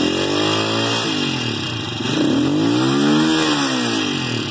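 Itálica Super IDM 125 motorcycle's single-cylinder four-stroke engine revved up and back down twice with the throttle, the second rev longer and higher, peaking about three seconds in. It runs on an aftermarket racing CDI with no rev limiter.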